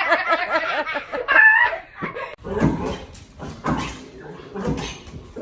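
A person laughing in quick rhythmic bursts, then a brief high-pitched call about a second in, followed by scattered knocks and clatters.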